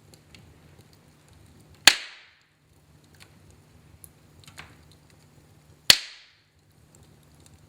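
Wood fire in a fireplace crackling, with two loud, sharp pops about four seconds apart and a smaller crack between them.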